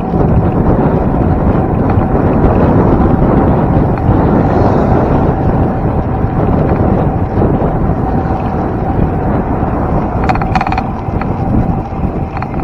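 Loud, steady wind rushing over the microphone of a moving bicycle, with a few brief clicks about ten seconds in.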